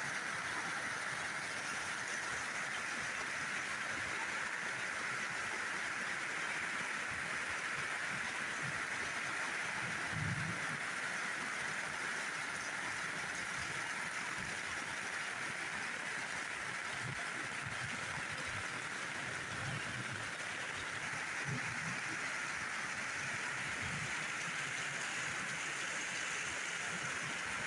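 Heavy rain pouring down steadily, an even rushing hiss with no pauses, with a few soft low thumps here and there.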